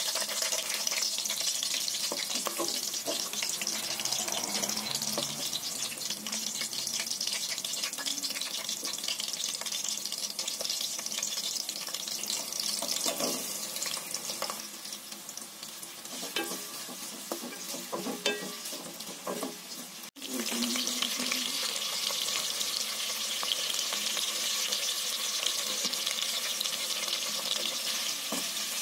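Sliced green chillies and shallots sizzling in hot oil in an aluminium pot, a steady frying hiss that drops out for an instant about twenty seconds in. A ladle stirs the onions near the end.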